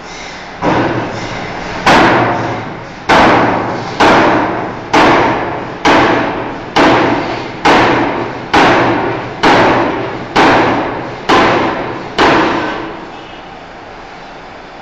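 Forging hammer striking a steel bar: about thirteen heavy blows roughly a second apart, each ringing briefly. The first blow is lighter, and the blows stop a couple of seconds before the end, leaving steady machinery hum.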